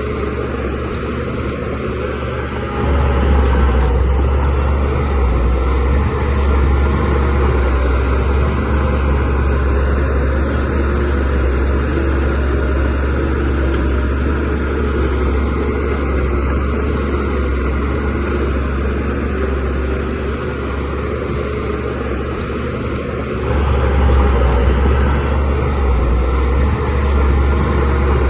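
Shantui DH17C3Pro bulldozer's diesel engine running steadily with a deep drone, growing louder about three seconds in and again near the end.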